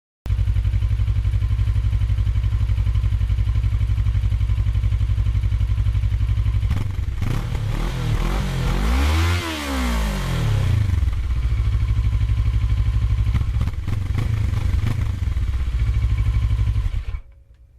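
Kawasaki ER-6n's 649 cc parallel-twin engine idling through its exhaust, revved up once in the middle, rising and falling in pitch, then settling back to a steady idle before the sound cuts off near the end.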